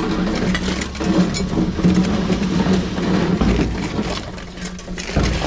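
The engine of heavy road-works machinery running steadily with a low hum.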